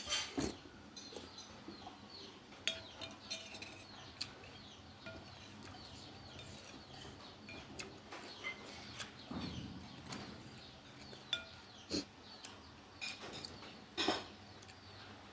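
Spoon and chopsticks clinking and knocking against a bowl of beef noodle soup while someone eats, in scattered sharp clicks.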